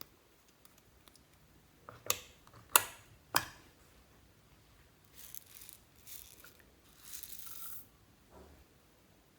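Close handling noises of slime being worked with added ingredients: three sharp taps or clicks, then several short crinkly, hissing rustles.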